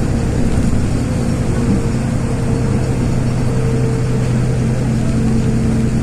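LiAZ 6213.22-01 articulated city bus under way, heard on board: a steady diesel engine hum holding one pitch over road and tyre rumble.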